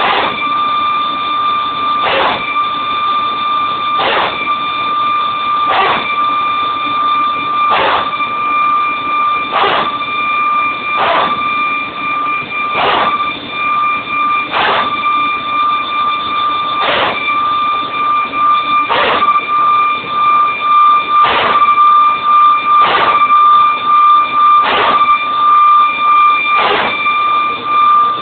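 Airbus A320 hydraulic power transfer unit (PTU) running: a steady high whine with a harsh bark about every two seconds. It is being run on a weekly systems check.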